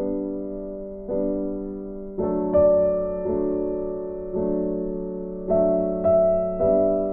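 Background music: slow piano chords, struck about once a second and each fading away before the next.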